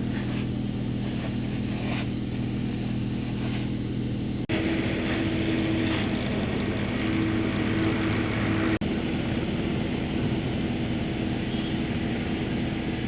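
An engine running steadily at a constant speed, with a steady hum. The sound breaks off abruptly twice, then carries on with a slightly different tone.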